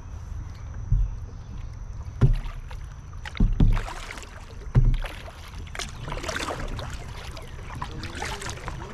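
Kayak paddling: paddle strokes splashing in the water, with a few low knocks in the first five seconds.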